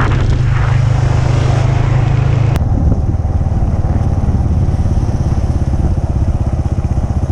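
Motorcycle engine running steadily under way. Its note changes abruptly about two and a half seconds in, then carries on with a throbbing low pulse.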